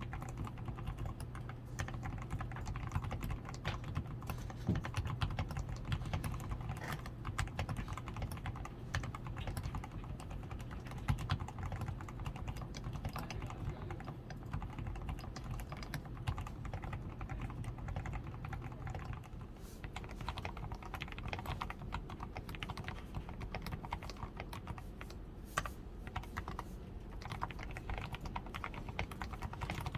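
Continuous typing on a DAREU A87 Pro mechanical keyboard that has been fully lubed with Krytox 105, with a PCB tape mod, foam-reinforced switches, lubed stabilizers and XDA-profile keycaps. The keystrokes come in a dense, unbroken stream at a steady level.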